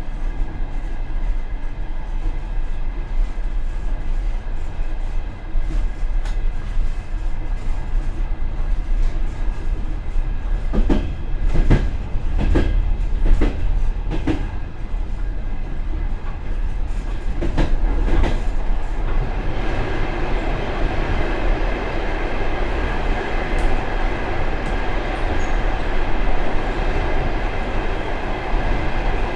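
Passenger train running on the rails, heard inside the rear vestibule of the last car: a steady low rumble with two clusters of sharp wheel clacks over rail joints or points around the middle. The running noise grows fuller in the last third.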